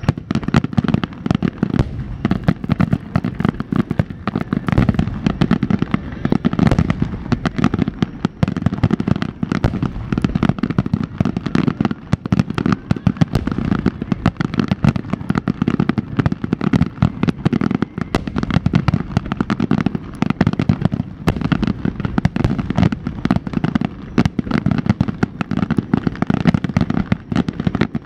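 Dense, rapid-fire barrage of aerial firework shells bursting overhead, loud booms and bangs following one another many times a second without a break.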